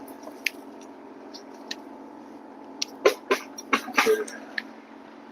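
Objects being handled and set down: a quick cluster of knocks and rattles about three seconds in, with a few scattered clicks, over a steady low hum.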